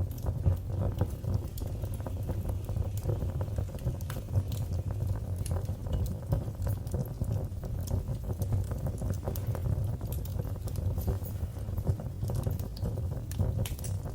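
Wood fire burning in a fireplace: a steady low rumble of flame with many small irregular crackles and pops throughout.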